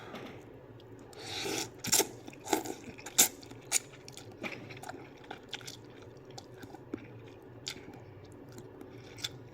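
A person eating spicy ramen noodles up close: chewing with wet mouth smacks and clicks, busiest in the first half, then a few sparse clicks.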